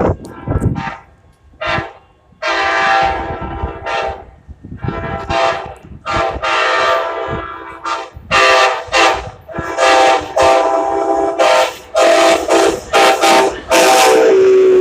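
Amtrak passenger locomotive's multi-chime air horn blowing about a dozen short and long blasts in quick succession, the last one long, over the low rumble of the moving train.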